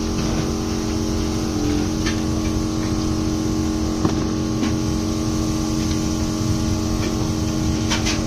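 Honda 125 single-cylinder motorcycle engine idling steadily, with a few faint clicks over it.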